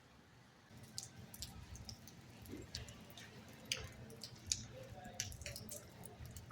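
Faint, irregular soft clicks and ticks over a low rumble, starting about a second in.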